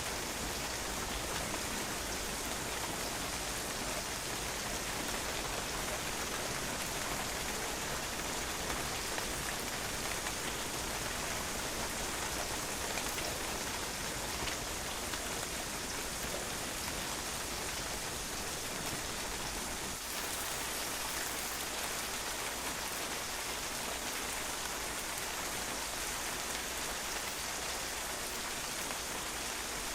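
Steady rain falling and drops splashing on a patio, an even hiss of water that holds steady throughout.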